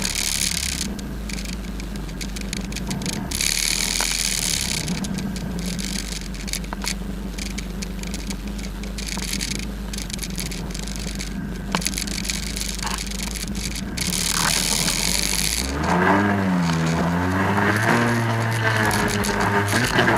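Jet ski engine running steadily, with repeated bursts of hiss over it. About sixteen seconds in the engine gets louder and its pitch rises and falls.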